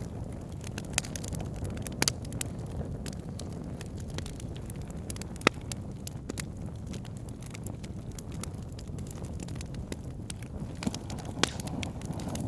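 Wood fire burning in a fireplace: a steady low rumble of flames with scattered sharp crackles and pops, the loudest pop about five and a half seconds in.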